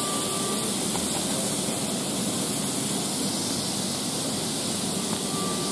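Steady hiss and rumble of a Berlin S-Bahn train standing at an underground platform with its doors open.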